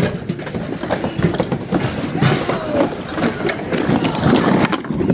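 Continuous clattering and rattling of goods being moved about, with many short clicks and knocks over a low rumble, and faint voices behind.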